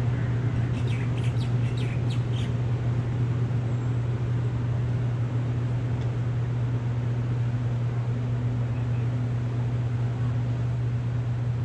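A bird gives a quick run of about six short, downward-sweeping chirps about a second in, over a steady low hum and an even hiss.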